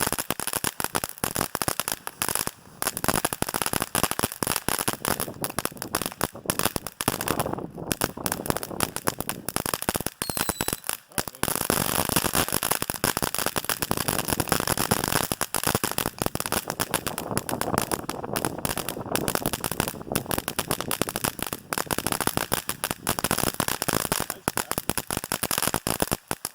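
Frisky Starburst firework cake firing: a dense, rapid, continuous popping and crackling, broken by a few brief lulls.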